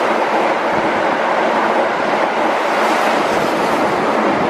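Keihan 8000 series train passing through the station at speed without stopping: a loud, steady rush of wheel and rail noise.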